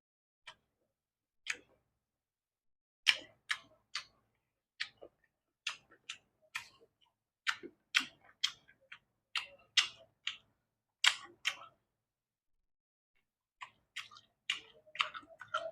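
A person chewing boiled vegetables close to the microphone: irregular wet mouth clicks and smacks, about two a second, with a pause of over a second near the end.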